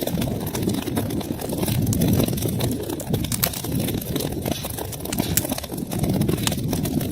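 Wood fire crackling: a steady low rumble of burning logs with frequent small sharp pops and snaps.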